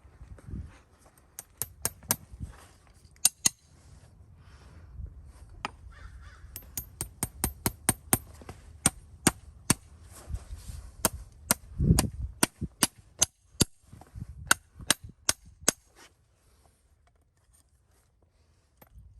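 A run of sharp, irregular clicks and taps, about two or three a second, from a farrier's tools working on a horse's hoof, with a duller thump about twelve seconds in. The clicks die away a few seconds before the end.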